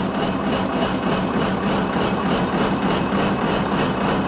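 Tigercat 726B feller buncher's engine running steadily, freshly restarted after sitting abandoned for years.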